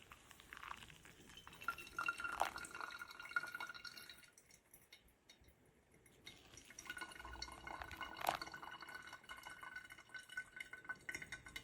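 Liquid poured into a glass vessel in two pours with a short pause between, with a faint steady ringing and light clinks.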